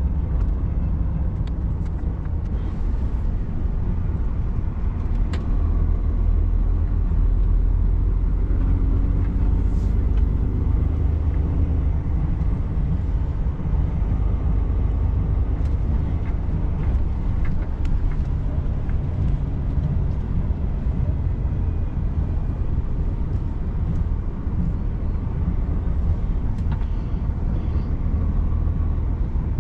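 Truck driving, with a steady low engine and road rumble and a few faint clicks.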